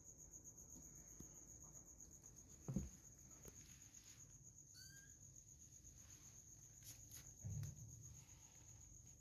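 Faint, steady high-pitched insect-like trill, with a soft thump about three seconds in and another near the end.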